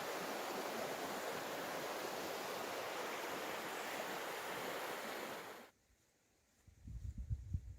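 Strong wind blowing steadily in a dense rush that cuts off abruptly about five and a half seconds in. After a short quiet, irregular low thumps follow.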